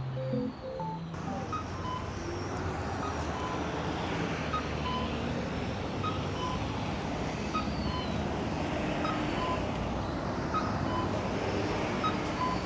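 Steady city traffic noise from passing road vehicles.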